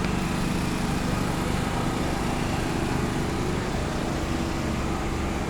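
Cargo riverboat's engine running steadily as the ship gets under way: a constant low drone with a faint steady hum.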